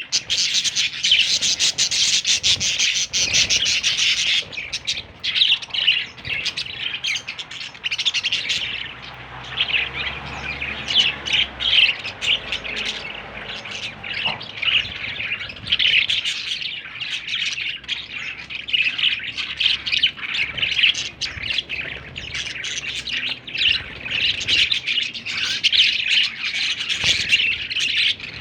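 Budgerigar chirping and chattering in a rapid, unbroken run of high chirps and squawks.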